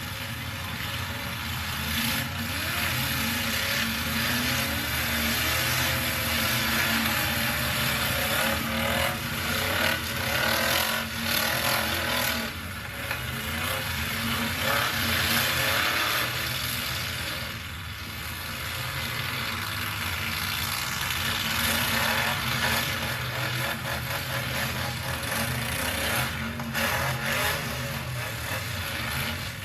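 Demolition derby trucks' engines revving and running hard together, the pitch rising and falling as they accelerate and back off.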